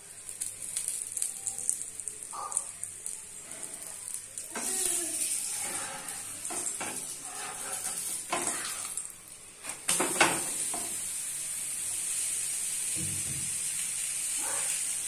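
Aloo paratha frying in oil on a tawa, sizzling steadily, while a metal spatula scrapes and knocks against the pan as the paratha is turned and pressed. A sharp knock about ten seconds in, then an even sizzle.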